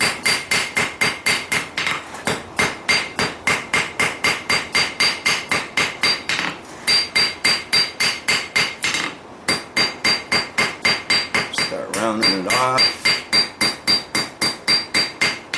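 Hand hammer striking hot steel on an anvil in a fast, even rhythm of about five blows a second, each blow ringing at a high pitch from the anvil, as the end of the steel tine is driven back. The hammering breaks off briefly twice, about nine and twelve seconds in.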